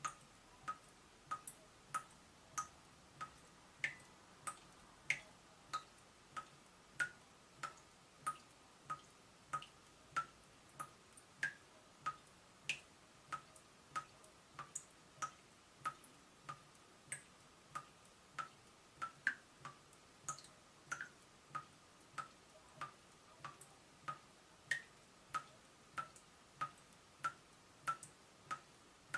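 Leaking tap dripping steadily, water drops falling about one and a half times a second, each a short click with a brief pitched ring.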